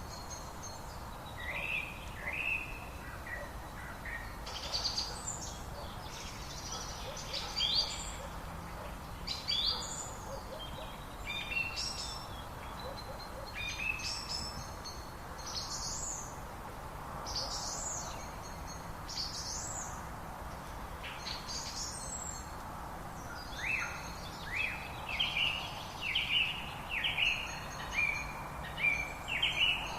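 Several songbirds singing, with short bright phrases about every two seconds and a quicker run of short falling notes near the end, over a steady hiss of outdoor background noise.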